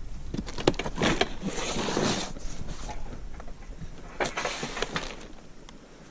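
Packaging being handled during unboxing: irregular rustling and scraping of packing material and parts, in several short bursts that die down near the end.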